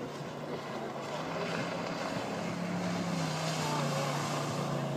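Boat engine running steadily, growing gradually louder.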